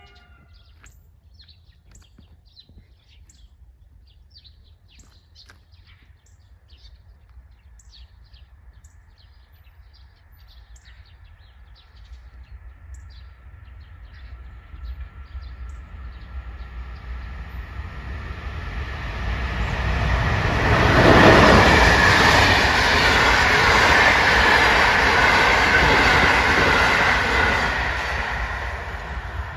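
A train approaching and passing over a level crossing: its noise builds over about ten seconds, is loudest from about twenty seconds in, then begins to fade near the end.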